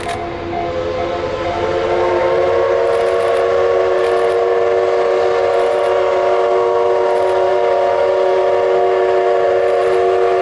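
Steam locomotive whistle of the SL Taiju, a C11-class tank engine, blowing one long, loud blast of several tones sounding together. It swells up over the first two seconds and then holds steady.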